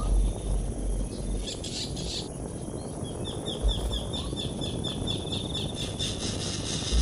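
Rapid series of short, high bird chirps, about four or five a second, over steady outdoor background noise with a few low rumbles.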